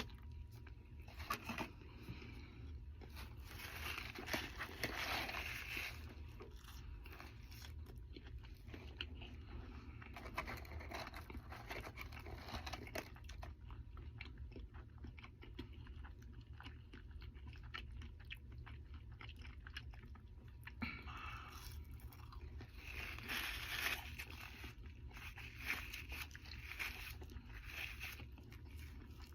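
Close-up chewing and biting of a McDonald's Double Big Mac, soft crunching and mouth sounds coming in irregular spells, over a steady low hum.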